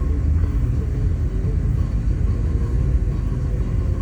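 Freight train's cars rolling past at a steady pace, a continuous low noise with no let-up.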